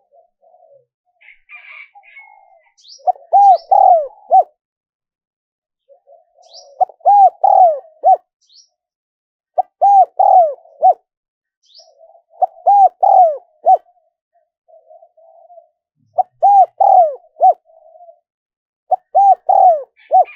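Spotted dove cooing its song. Six phrases come about every three seconds, each a quick run of rounded coo notes, with soft low coos between phrases and faint high chirps.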